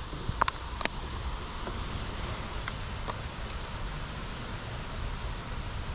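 Steady high-pitched trill of wetland insects, with low wind rumble on the microphone and soft footsteps on the trail; two short sharp clicks sound about half a second and a second in.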